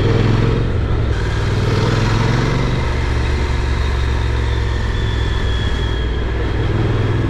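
Honda NC750X motorcycle's parallel-twin engine running steadily as the bike is ridden slowly.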